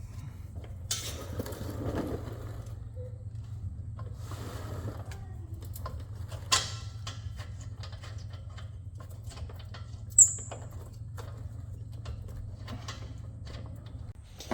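Scattered light clicks, taps and rustles of tools and parts being handled under a car, over a steady low hum. A single short high chirp sounds about ten seconds in.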